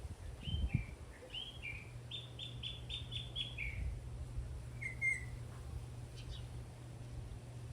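Venezuelan troupial singing: two pairs of falling notes, then a quick run of about six repeated notes ending on a falling one, and a short call about five seconds in. A steady low hum runs underneath.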